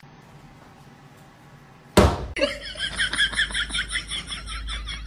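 A sudden bang about two seconds in, then about three seconds of rapid, repeated laughing.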